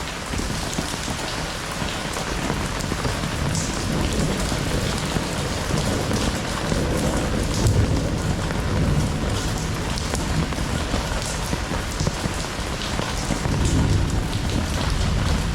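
Heavy rain falling steadily, a dense hiss with the sharp ticks of drops striking nearby surfaces. Low rumbles swell up about halfway through and again near the end.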